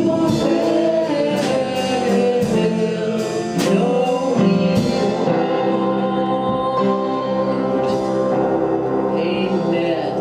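Worship band and singing playing a gospel song, with a steady beat in the first half that drops away, leaving held chords.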